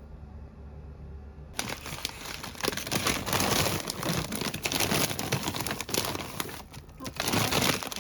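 Loud crinkling and rustling that starts suddenly about one and a half seconds in, after a low steady hum, and runs on with a short lull near the end.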